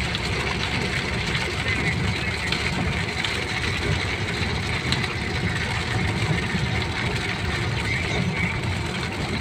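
Steady road and engine noise from inside a moving car, even and unbroken.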